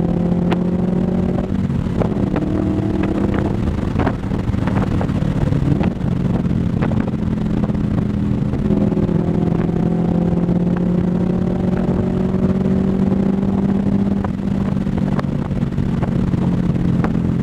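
Scion FR-S's FA20 2.0-litre flat-four running through Tomei unequal-length catless headers and an ISR catback exhaust, heard while driving under light load. It gives a steady low exhaust note that shifts in pitch a couple of times in the first six seconds, then rises slowly, with a few faint clicks over it.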